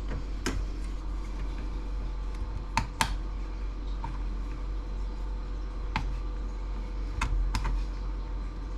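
Scattered light plastic clicks and taps as the casing of a laptop docking station is handled and prodded in the search for hidden screws, a pair of sharper clicks about three seconds in. A steady low hum runs underneath.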